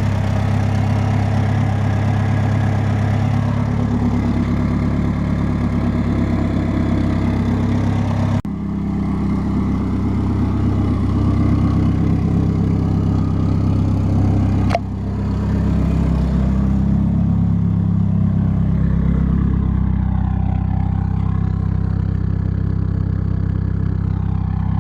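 Turbocharged Hyundai Sonata engine, fitted with an eBay turbo kit, running steadily at idle at a constant pitch, with two abrupt breaks about 8 and 15 seconds in.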